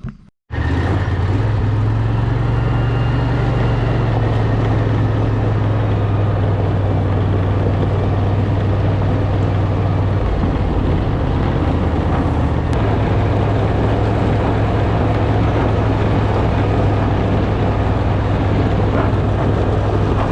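Genie 4062 2 hp garage door opener running steadily with a strong low hum, its tone shifting slightly about halfway through.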